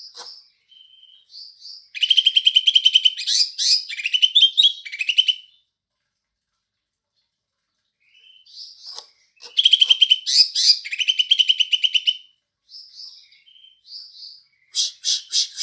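Green leafbird (cucak ijo) singing: two long bouts of rapid, high-pitched chattering with short chirps between them and a few sharp chirps near the end. The song is filled with mimicked Eurasian tree sparrow calls.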